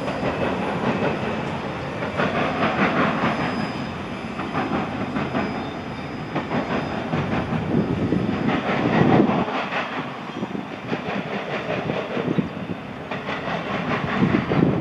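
Freight train cars rolling past, their wheels clicking over the rail joints amid a steady rumble and rattle.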